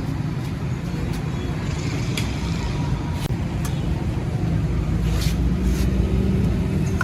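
An engine running with a steady low rumble that builds slightly, with a few faint clicks over it.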